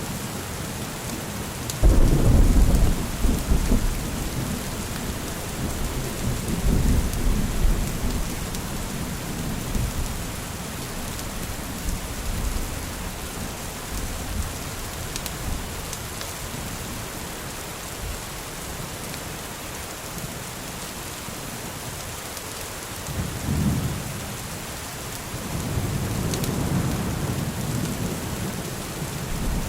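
Steady rain falling, with rolls of thunder: a sudden loud rumble about two seconds in, further rumbles a few seconds later and near the end, and a quieter stretch of rain alone in the middle.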